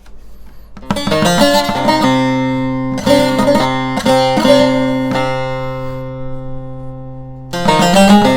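Acoustic guitar played solo and improvised: single plucked notes and short runs over a low note left ringing, growing louder near the end.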